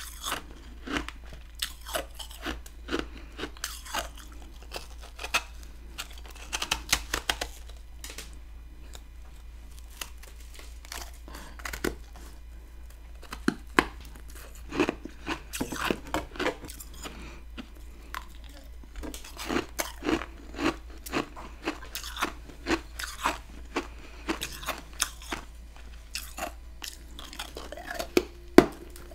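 Close-up chewing and crunching of freezer frost ice, in irregular runs of crisp crackles with a short lull partway through.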